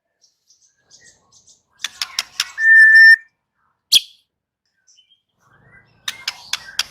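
White-rumped shama singing in short phrases: a few quick sharp notes, then a clear held whistle about two and a half seconds in, a single loud sharp note a second later, and another quick run of sharp notes near the end.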